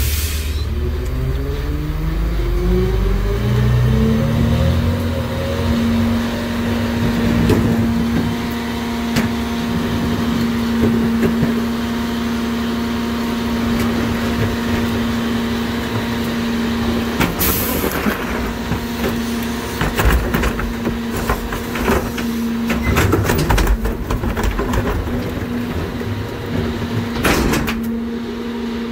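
NewWay rear loader garbage truck's engine revving up over the first few seconds and holding a steady high speed while the hydraulic packer works the load, with a steady whine. Scattered knocks and crunches of heavy trash being compacted run through the second half, with a brief hiss about two-thirds of the way in.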